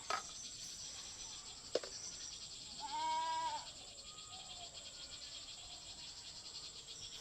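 A goat-like bleat, one flat call lasting under a second about three seconds in, over a steady high-pitched hiss, with a single sharp click a little under two seconds in.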